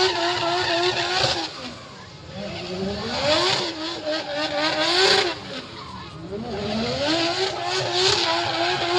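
Car engines revving: the engine note climbs in pitch and falls back about four times, with dips in loudness between the runs.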